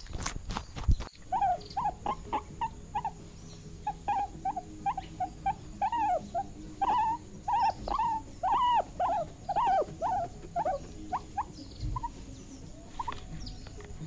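Rabbit making a rapid series of short squeaking calls, each rising and falling in pitch, about three a second. The calls stop about eleven seconds in, with a few more near the end. A brief burst of scuffling knocks comes in the first second.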